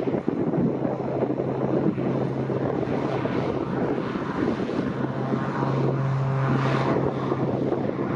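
Aircraft engine running steadily, heard under heavy wind buffeting on the microphone.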